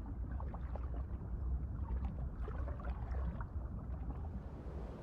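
Low steady underwater rumble of water rushing past a camera on a swimming Weddell seal, with scattered faint bubbling ticks from air the seal blows under the sea ice.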